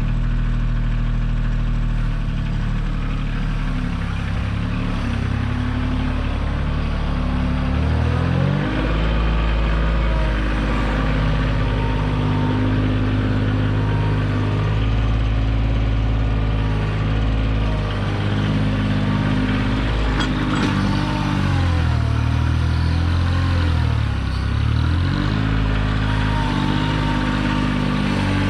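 Kioti tractor's diesel engine running while working a backhoe. Its speed rises about eight seconds in and dips and recovers a few times later on, as the load changes.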